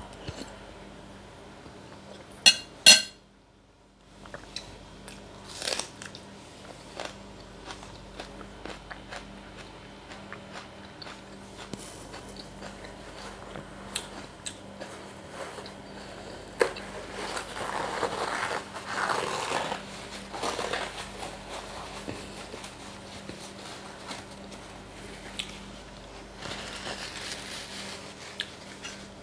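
A person chewing a mouthful of meatball soup, close-miked by a clip-on microphone: many small wet mouth clicks, with two loud sharp clicks about three seconds in and louder stretches of chewing noise later on.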